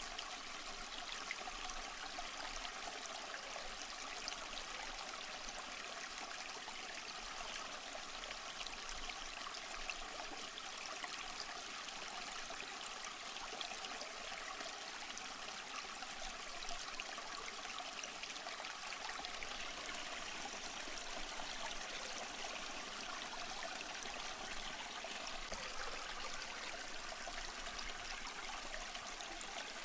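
Small stream flowing over rocks: a steady, even babble and trickle of running water.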